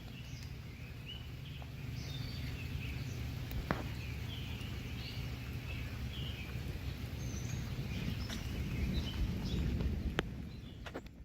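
Several birds chirping in short, scattered calls over a steady low rumble.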